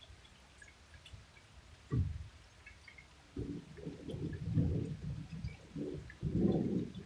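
Thunder: a sudden low clap about two seconds in, then a deep, irregular rolling rumble from about three and a half seconds on.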